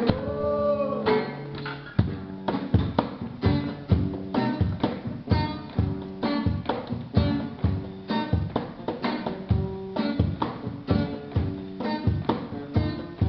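Music: an acoustic guitar strummed in a steady rhythm of about two strokes a second, with a brief gliding note at the start.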